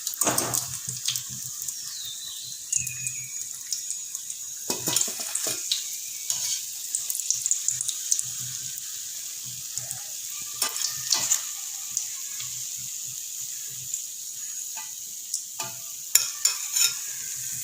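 Breaded chicken cutlets deep-frying in hot oil: a steady sizzle, with a few sharp clinks and knocks now and then.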